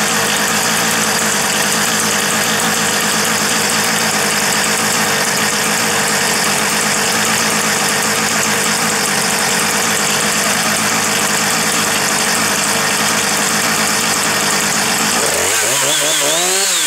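Husqvarna 455 Rancher chainsaw's two-stroke engine idling steadily, then revved up near the end.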